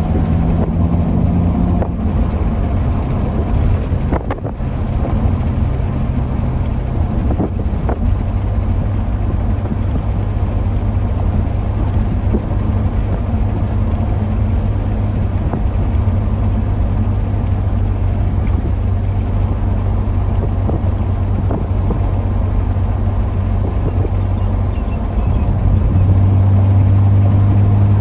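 Car engine running under way with road noise. The engine note steps down in pitch about seven seconds in, holds steady for a long stretch, then gets louder near the end.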